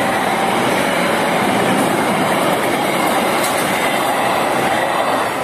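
Passenger coaches of a train rushing past at speed: a loud, steady rush of steel wheels on the rails with clattering. The noise begins to ease near the end as the last coaches go by. A two-tone level-crossing alarm sounds faintly near the start.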